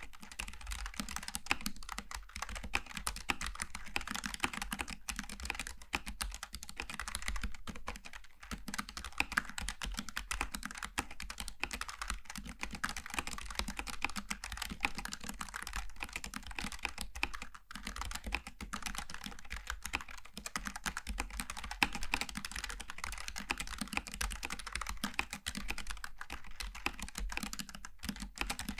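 Typing on a Logitech G915 TKL low-profile mechanical keyboard with GL Tactile switches: a continuous run of quick key presses and clicks.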